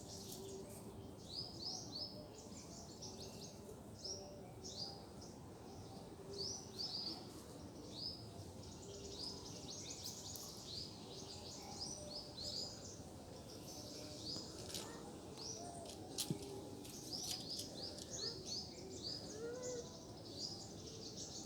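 Small birds chirping: many short, high chirps, often in quick runs, over steady low outdoor background noise.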